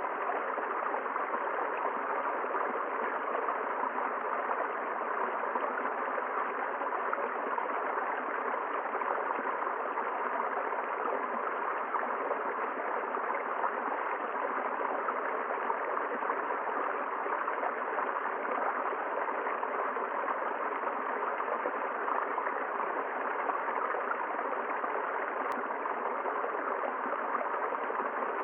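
A river flowing, its water rushing steadily without a break.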